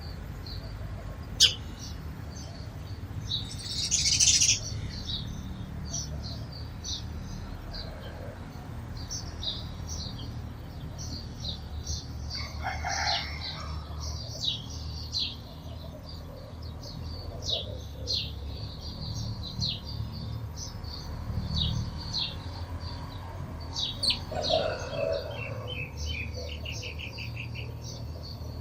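Sparrows chirping, many short high chirps in irregular succession, with a quick trill near the end. A sharp click comes about a second in and a brief noisy burst around four seconds, over a steady low rumble.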